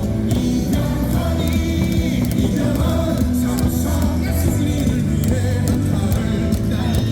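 Cheer song playing over a baseball stadium's loudspeakers, with singing, loud and steady.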